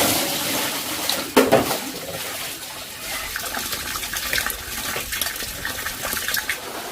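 Water splashing and pouring, with one louder splash about a second and a half in and a run of small spattering splashes after it.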